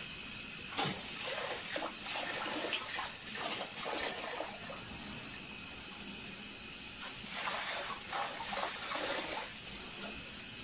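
Water running from an outdoor tap and splashing into a metal bucket as a dog laps at the stream, the splashing louder in spells. A steady high chirring of insects goes on underneath.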